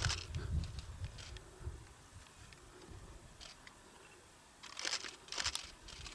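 A few short crunching, rustling noises about five seconds in, with faint scattered clicks before them.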